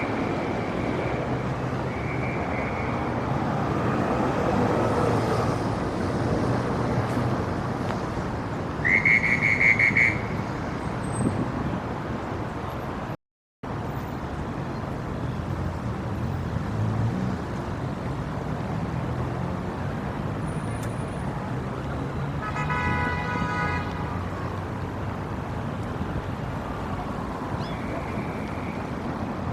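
Steady city street traffic noise, with a loud car horn honk lasting about a second, around nine seconds in. The sound drops out completely for a moment a few seconds later, and a softer pitched tone sounds briefly near the two-thirds mark.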